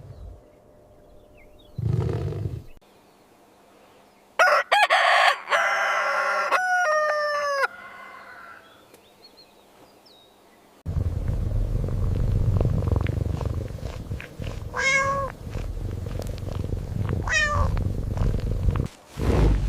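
A series of different animal calls one after another: pitched calls with falling glides, then a long low rumbling sound with two short high falling cries over it.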